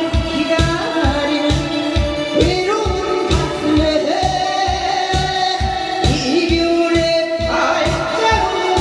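A song: a voice sings long, gliding notes over a steady beat of about three strokes a second.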